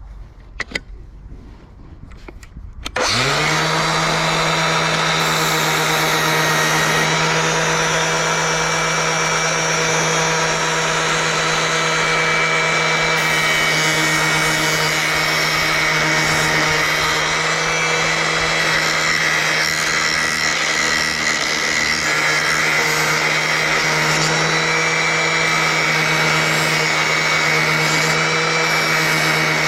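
A few light clicks, then an angle grinder with a fine flap disc spins up about three seconds in and runs steadily at full speed while the disc is worked along the edge of a garden shears blade to sharpen it.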